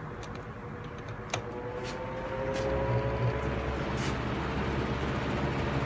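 Sears Galaxy box fan running on low, its motor giving a low hum with a steady whine, with a click about a second and a half in. The hum grows louder about two and a half seconds in as the fan, slowed by stiff bearings, gathers speed.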